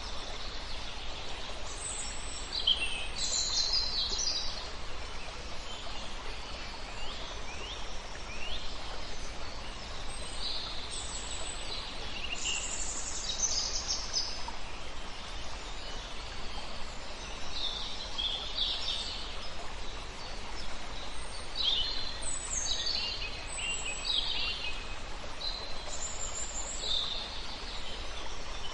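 Several songbirds singing and chirping in short, overlapping phrases over a steady background hiss of flowing river water.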